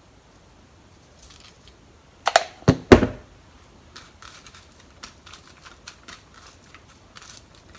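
Kitchen handling sounds as salt is sprinkled over sliced cucumber in a strainer: three sharp knocks a little over two seconds in, then a scatter of light ticks.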